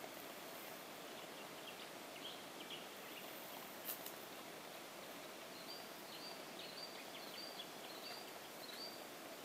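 Birds calling in the bush with short, high chirps, a few at first and then a quick run of repeated calls in the second half, over a faint steady hiss. A single sharp click about four seconds in.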